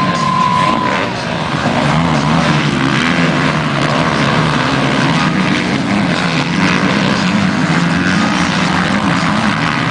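Motocross motorcycle engines running and revving, their pitch rising and falling and overlapping throughout, with a short high steady tone in the first second.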